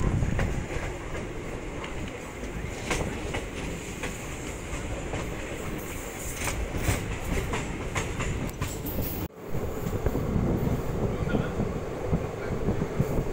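Passenger train running at speed, heard from inside a coach: a steady rumble with the wheels clicking over rail joints. The sound drops out for an instant about nine seconds in.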